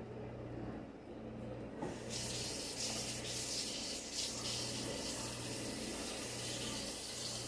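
Kitchen tap turned on about two seconds in, water running steadily into the sink.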